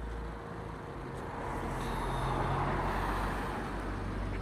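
A road vehicle passing by, its noise swelling to a peak about midway and then fading.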